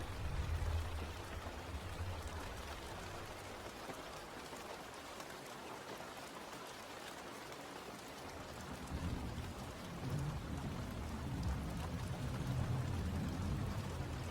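Steady rain falling, with a low rumble of thunder that fades over the first few seconds and rolls in again from about nine seconds in.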